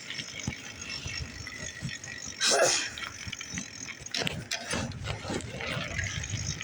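Bicycle rear freewheel ticking as the bike coasts, with a loud clatter about two and a half seconds in and more knocks a little later.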